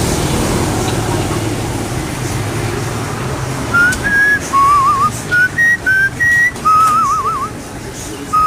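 A low rumble of background noise, then, from a few seconds in, a series of clear whistled notes stepping up and down in pitch. Some notes are held with a wavering trill.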